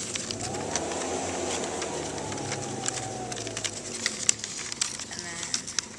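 A vehicle going past, its pitch rising, holding, then slowly falling over about three and a half seconds. Paper crackles and clicks as it is handled and folded.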